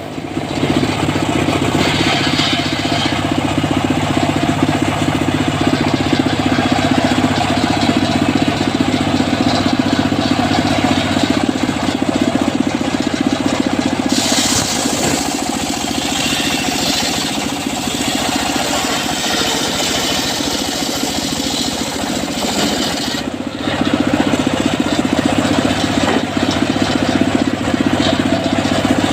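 Engine of a homemade circular sawmill running steadily, with a higher hiss that rises for a few seconds at a time, around two seconds in and again in the middle.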